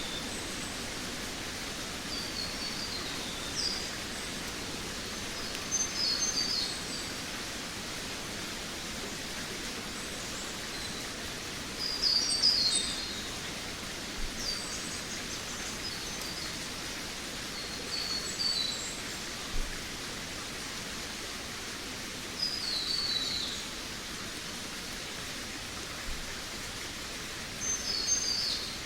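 Forest songbirds singing: short, high, twittering phrases that fall in pitch, repeated every few seconds and loudest near the middle. Beneath them runs a steady background hiss.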